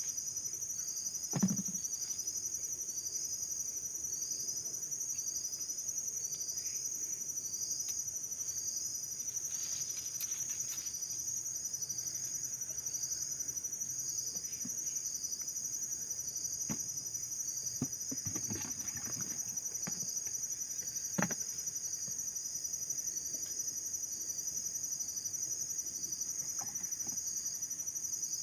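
Insects chirping: a steady high-pitched trill, with a pulsing chirp beneath it a little faster than once a second. A few sharp knocks stand out, the loudest about a second and a half in and again around twenty-one seconds.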